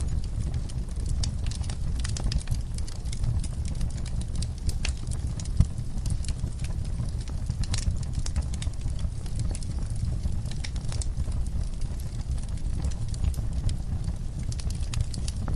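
Wood fire crackling in a fireplace: irregular sharp crackles and pops over a steady low rumble of the flames, with one louder pop about five seconds in.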